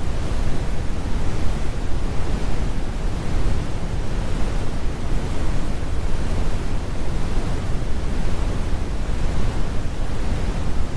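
Synthesized brown noise: a steady, deep rumbling hiss, heaviest in the low end with the highs rolled off, without any change or event.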